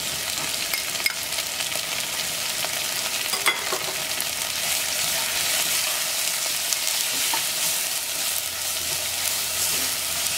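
Sliced onions, green chillies and whole spices sizzling in hot oil in an enamelled cast-iron pot, with crushed ginger and garlic just added, stirred with a wooden spatula. The frying hiss is steady, and a few light clicks come from the utensils against the pot, the sharpest about three and a half seconds in.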